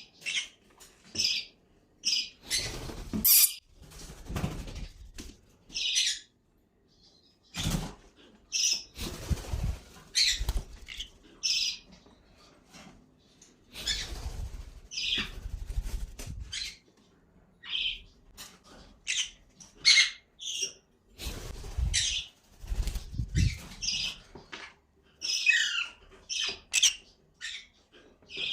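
Ringneck parrot giving short, sharp chirps and squawks again and again, with several bursts of wing flapping lasting a second or two each.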